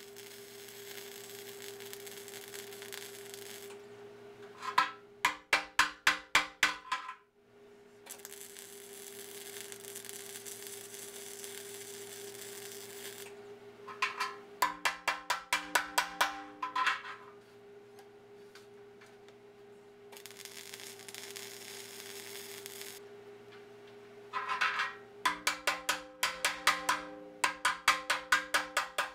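Welding a steel patch plate onto a rusty steel tractor rim: spells of steady arc hiss alternate with quick bursts of sharp metallic tapping, about seven taps a second, over a constant electrical hum.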